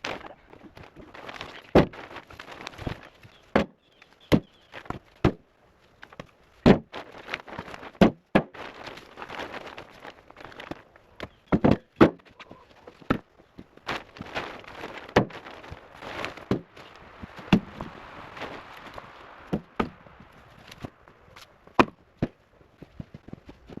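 Split firewood being handled and stacked: sharp, irregular wooden knocks and clunks as logs are dropped onto one another, with crunching footsteps and shuffling between them.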